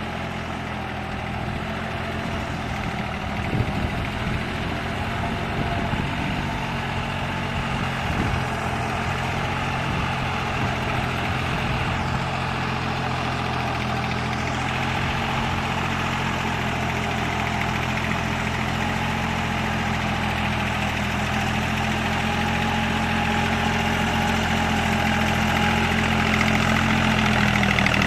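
Deutz-Fahr Agrolux 50 tractor's diesel engine running steadily, getting gradually louder toward the end, with a few short knocks in the first several seconds.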